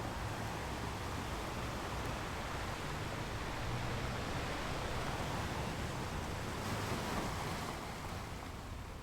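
Steady rushing noise of ocean surf, even throughout with no distinct single wave breaks.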